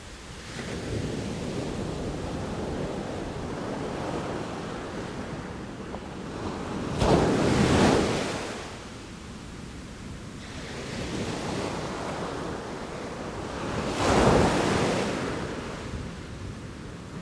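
Sea waves washing in, with two louder crashes about seven seconds apart and a gentler wash between them.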